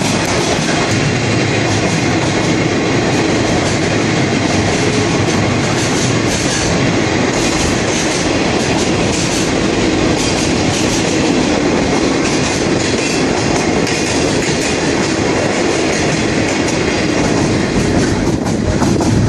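Sagano Scenic Railway passenger carriage running on its rails through a tunnel: a loud, steady rumble and rattle of wheels and carriage. There is a brief dip in the hiss near the end as it comes back out into the open.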